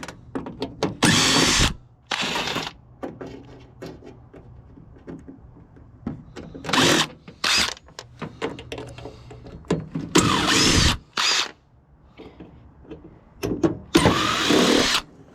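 Handheld power drill running in several short bursts, each from a fraction of a second to about a second, while taking apart a water heater's bracket.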